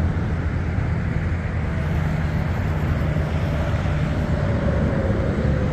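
Steady low rumble of freight-train diesel locomotives in the distance, with no sharp events.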